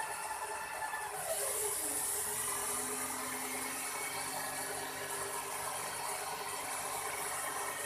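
Small electric motors and rotor blades of a toy RC helicopter whirring. About a second in, a whine falls in pitch, then the whir holds steady with a stronger airy rush.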